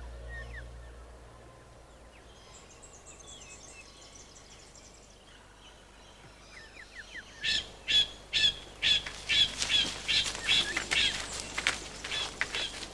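Bird calling: a few faint high chirps, then from about halfway through a fast run of loud, harsh squawks, two to three a second.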